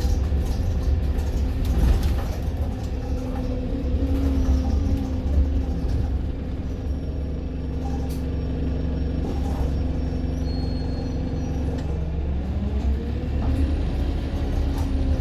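Service bus running, heard from on board: a steady low engine and road rumble with a droning engine tone that shifts in pitch, rising near the end as the bus picks up speed.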